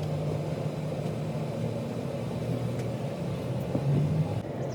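Steady low hum of a running engine or motor.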